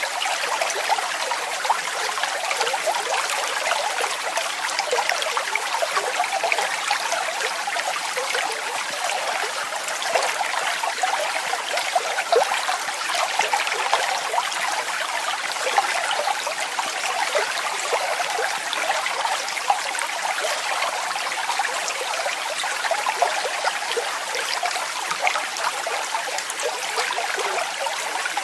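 Waterfall: water falling and splashing in a continuous, steady rush, full of small splashes and light in bass.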